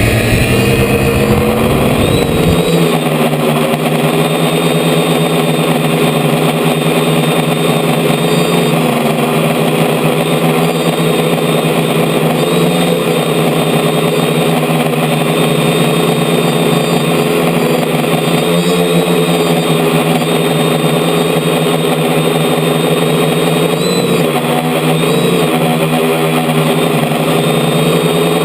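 DJI F450 quadcopter's four brushless motors and propellers running in flight, heard close up from a camera mounted on the frame: a steady multi-toned whine with a few brief dips and rises in pitch as the throttle shifts, around a third of the way in and again near the end.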